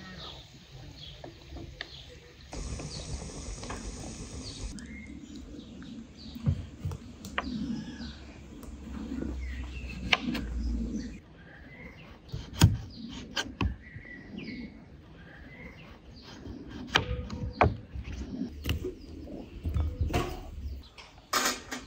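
Small birds chirping on and off, with scattered sharp knocks and clicks, the loudest knock a little after halfway.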